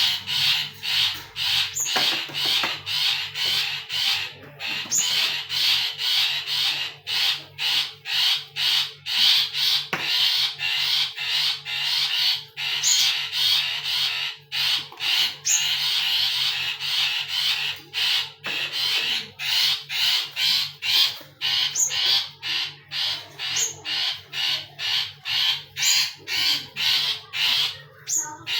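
Caged birds giving short, harsh calls over and over, about two a second, with a few higher notes mixed in.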